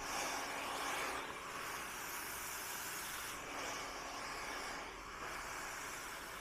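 Handheld hair dryer blowing, a steady hiss of air over a faint motor hum that swells and fades every second or two as the dryer is moved through long hair.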